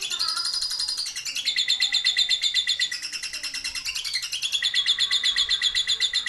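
Lovebird 'ngekek': a long, unbroken, rapid chattering trill, high-pitched, with its pitch stepping up and down every second or two.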